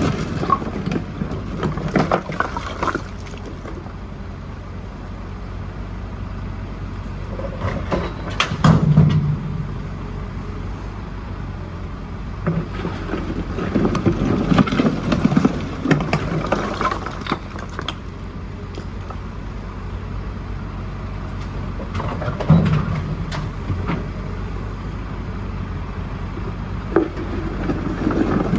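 JCB 4CX backhoe loader's diesel engine running steadily, rising in repeated stretches of a few seconds under load, with knocks and clatter of the bucket working rubble.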